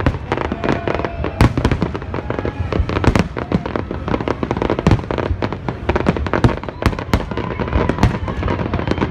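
Fireworks display going off continuously: a rapid, irregular string of sharp bangs and crackles, many each second, over a steady rumble of distant explosions.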